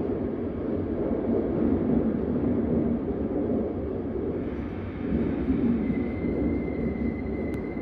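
S-Bahn commuter train running along the track: a steady rumble of wheels and running gear. About six seconds in, a thin, steady high whine joins it.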